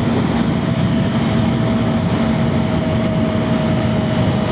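KTM Duke 250's single-cylinder engine running at a steady cruise, heard from inside the helmet with wind rushing over the mic. The engine note holds almost level, sinking slightly near the end.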